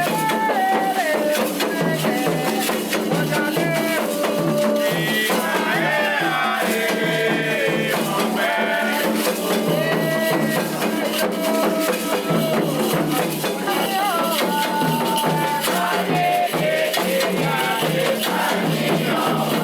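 Candomblé ritual song: voices singing a melodic chant over a steadily shaken rattle.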